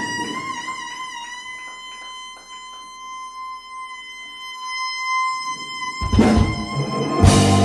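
Live fusion band music: one long held high melodic note, wavering slightly at its start, over soft held keyboard tones. About six seconds in the drums and bass come in and the full band plays louder.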